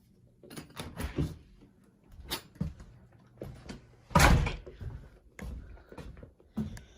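A door being opened and shut, with one loud thump about four seconds in, among scattered lighter knocks.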